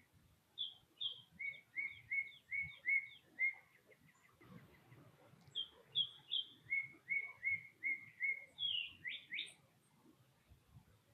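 A songbird singing two songs of clear whistled notes. Each song opens with two or three higher notes, then runs into a quick series of about six lower notes. The second song ends with a couple of sharp rising notes.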